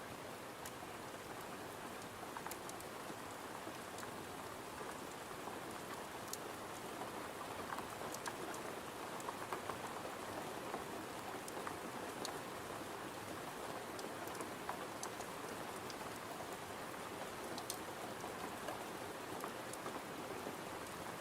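Steady rain, as on a window, with scattered sharp little clicks or crackles.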